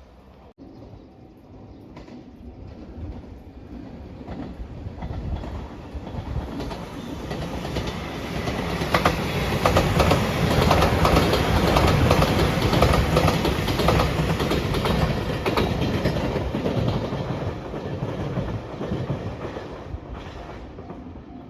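Electric train passing at speed, its wheels clacking over the rail joints. The sound builds over several seconds, is loudest near the middle and fades away toward the end.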